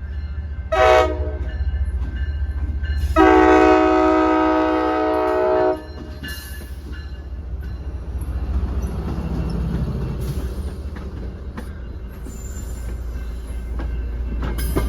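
Locomotive air horn sounding a short blast, then a long blast of several notes in a chord. The train then rumbles past with wheels clicking over the rail joints.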